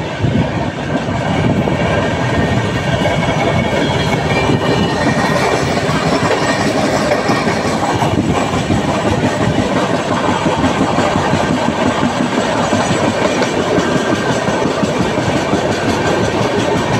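A train running along the track: a steady, loud rumble of wheels on rails that builds over the first second and then holds level.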